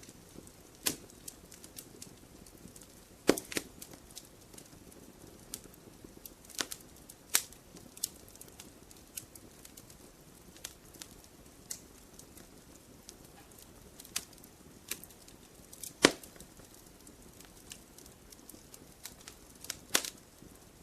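Wood fire crackling: a low steady hiss with irregular sharp pops, a few of them louder, about three seconds in, near the middle and near the end.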